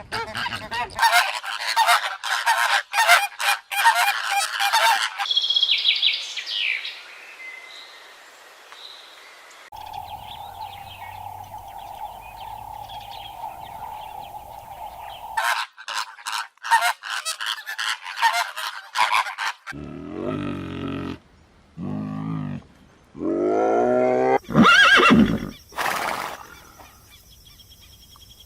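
A run of separate animal-call clips with abrupt cuts: dense rapid chattering for the first few seconds, then high bird whistles, a steady held tone, more chattering, and loud repeated pitched calls toward the end, likely geese or other fowl honking.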